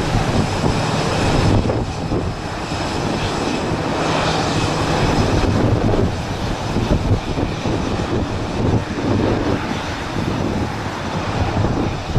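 Airbus A319 jet engines running during takeoff: a steady, loud rush with several high whining tones held over it.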